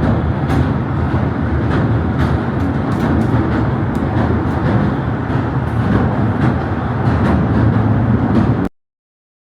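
Pier railway train running, a steady rumble with frequent sharp clicks, cutting off abruptly near the end.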